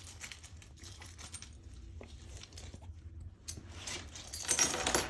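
Small metal hardware, bolts, nuts and washers, clinking and rattling as it is handled, with a louder stretch of clatter and rustling near the end.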